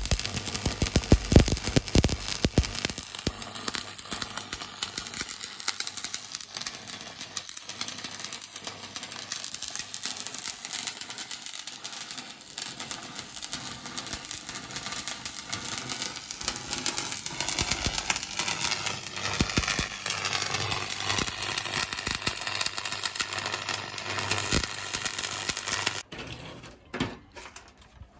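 Stick-welding arc from a 6013 mild-steel electrode on a vertical-up (3G) weld: a steady, dense crackle of rapid tiny clicks. The arc breaks off suddenly near the end.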